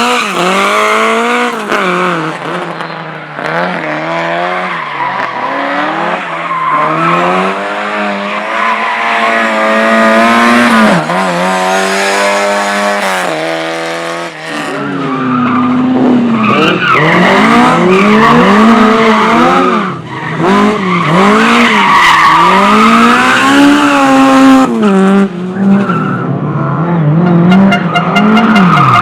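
Competition car's engine revving hard and falling away again and again as it is driven through a tight autoslalom course, with tyres squealing in the turns. It holds high revs for a few seconds near the middle, then lifts off sharply.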